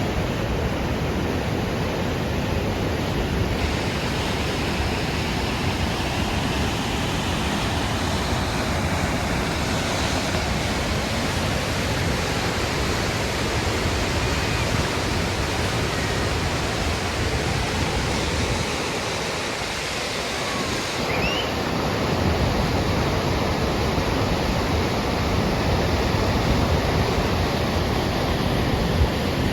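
Upper Falls of the Yellowstone River pouring over the brink: a steady rush of falling water, its low rumble easing briefly about two-thirds of the way through.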